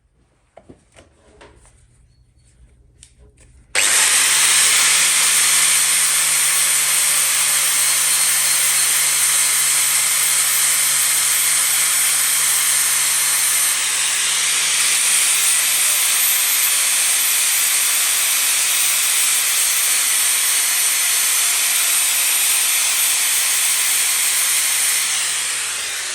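Angle grinder starting abruptly about four seconds in and grinding steel steadily, dressing down fresh plug welds on an exhaust baffle tube, then beginning to wind down near the end. Faint clicks of handling come before it starts.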